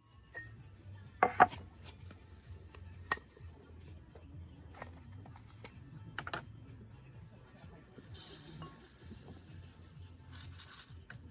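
Scattered light clinks and knocks of cookware or utensils being handled, a handful of separate strikes, with a short hiss that starts suddenly about eight seconds in and fades.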